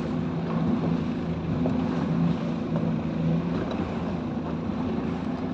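Small speedboat's engine running steadily, a low even hum under a rush of wind and water noise.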